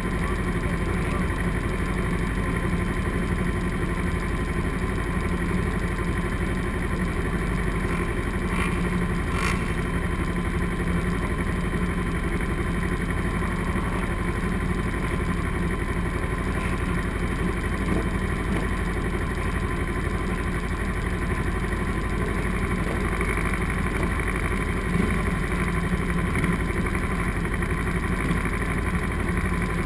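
Motorcycle engine running steadily at idle, with no revving.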